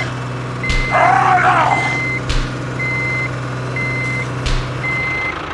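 Vehicle reversing alarm beeping steadily, a single tone about once a second, over a steady low engine hum. Three sharp knocks are spread through it, and a short voice-like call comes about a second in.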